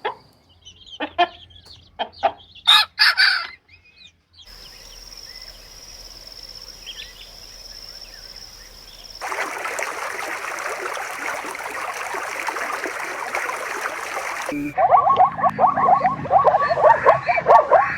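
Chickens: a rooster crowing and hens clucking, in several short clips with abrupt cuts between them. The clips hold short calls at the start, a steady high-pitched tone for a few seconds, a dense chatter of many birds, and then rapid repeated clucking near the end.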